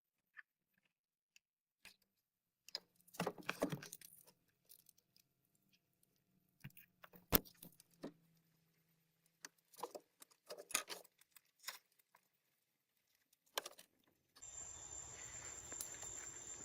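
Scattered light clicks and rattles, like small objects being handled, with quiet gaps between. About fourteen seconds in, a steady high insect drone begins over an outdoor background hiss.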